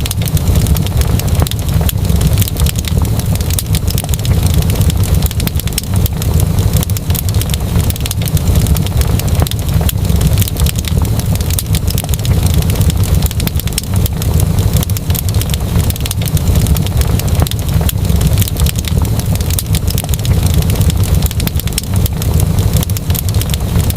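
Wood fire burning in a fireplace, with dense, irregular sharp crackles and pops over a steady low rumble.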